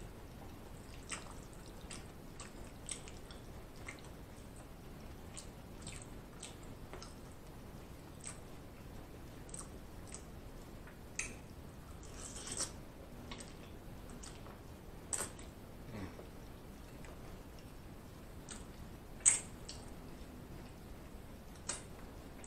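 Close-miked chewing of creamy shrimp Alfredo pasta: soft, scattered wet mouth clicks and smacks, with a few louder smacks about halfway through and near the end.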